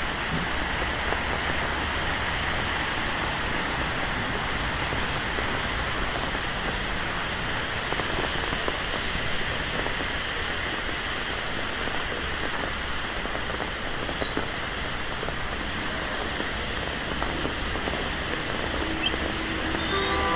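Steady rain falling and pattering on surfaces, an even hiss of rainfall on a city street.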